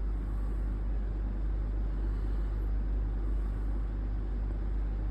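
Steady low background rumble with a constant low hum, unchanging and without distinct events.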